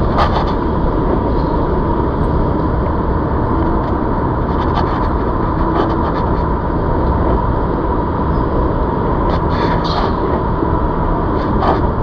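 Steady riding noise from a ZOOZ electric bike on the move: a continuous rumble with a faint steady whine and occasional rattling clicks, the loudest cluster of rattles about nine to ten seconds in.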